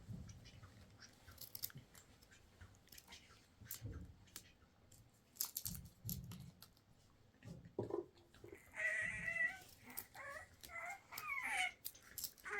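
Scattered soft clicks and knocks, then several short animal calls in the last four seconds: one held briefly, the others falling in pitch.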